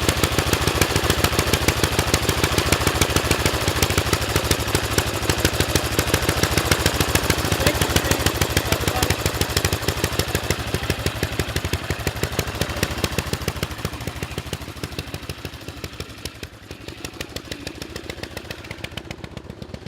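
Antique motorcycle engine running, its exhaust a rapid, even string of sharp pops. The sound grows fainter over the second half.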